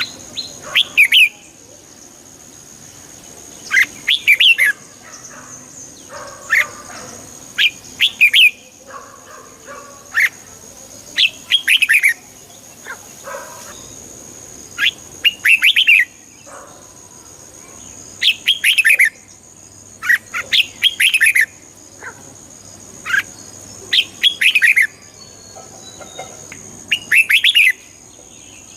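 Red-whiskered bulbul singing: short, bright warbled phrases repeated every second or two, with brief pauses between them.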